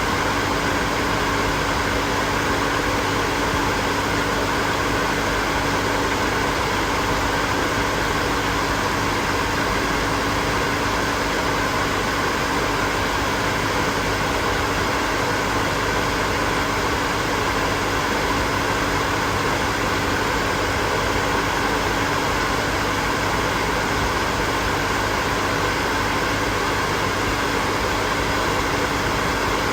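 Electric hair dryer running steadily, a continuous rush of blown air with a constant motor hum underneath.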